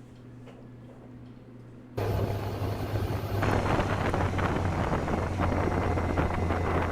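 Vehicle driving, heard as dashcam audio: steady road and wind noise over a low engine drone. It starts abruptly about two seconds in, after a quieter stretch of low hum.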